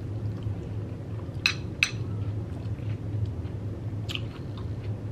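Close-miked chewing of a crunchy Xxtra Hot Cheetos taco bowl, over a steady low hum. Two sharp clicks come close together about a second and a half in, and another near four seconds, with small ticks between.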